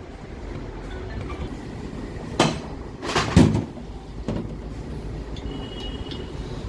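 Metal engine parts being handled during assembly, with two short clunks about two and a half and three and a half seconds in, over a low steady rumble.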